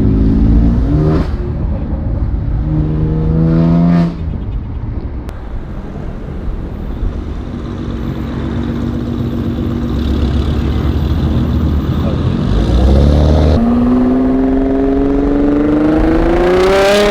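Car engine accelerating hard through the gears. Its pitch climbs, drops at a gear change about four seconds in, holds lower through the middle, and climbs steeply again near the end.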